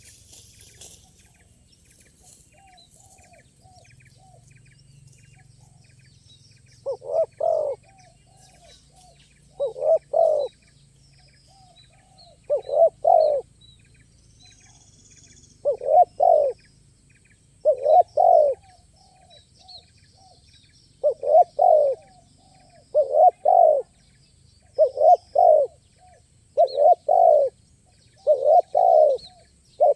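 Spotted dove (tekukur) cooing, a low two-part coo repeated every two to three seconds, starting about seven seconds in. Faint high chirps of small birds run underneath.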